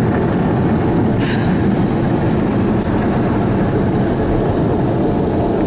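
Car wash blower dryers running at full blast on the stationary car, heard from inside it: a loud, steady rush of air with a deep rumble.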